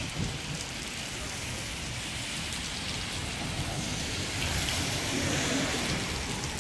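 Steady rain falling on a wet street.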